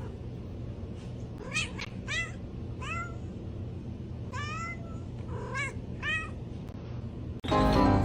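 A domestic cat meowing, about six short meows over a few seconds. Loud music cuts in suddenly near the end.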